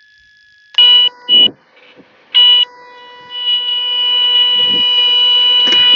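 Cessna 182N stall warning horn blaring in the landing flare. It gives two short blasts about a second in and another near two and a half seconds, then sounds steadily and slowly grows louder, the sign that the wing is nearing the stall just before touchdown.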